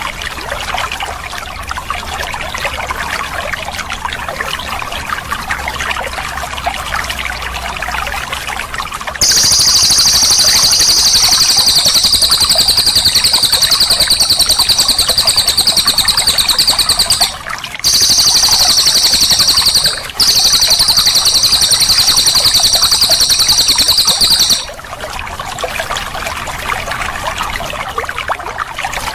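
Running water trickles steadily throughout. About nine seconds in, a cililin bird starts a loud, high, very rapid rolling trill that keeps going for about fifteen seconds, with two brief breaks, then stops, leaving only the water.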